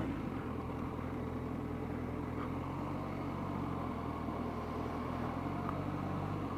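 Motorcycle engine running steadily at low, unchanging revs.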